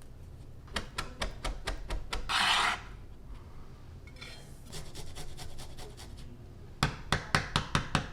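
A knife working on a wooden cutting board: runs of quick taps, a short scrape about two seconds in, and a fast run of louder knocks, about five a second, near the end.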